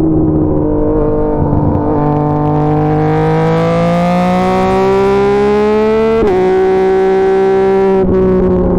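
Yamaha MT-09's inline three-cylinder engine through an SC Projects CR-T aftermarket exhaust, accelerating under load with a steadily rising pitch. About six seconds in, the pitch drops sharply at a quick upshift, then holds nearly steady.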